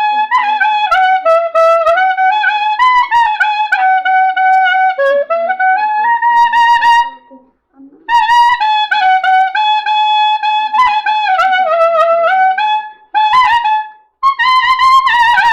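Clarinet playing a solo melody with sliding, ornamented notes, breaking off briefly twice.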